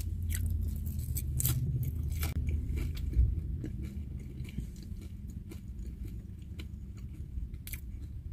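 Someone chewing and crunching food close to the microphone: irregular crisp crunches and clicks over a steady low rumble.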